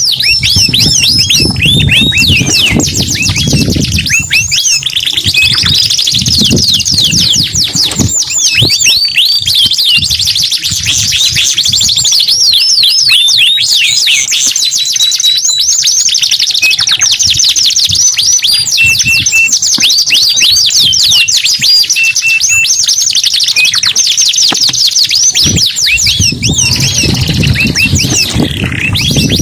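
Domestic canaries singing continuously in fast, high rolling trills, with rapid runs of rising and falling notes. A low rumble sits underneath during the first few seconds and again near the end.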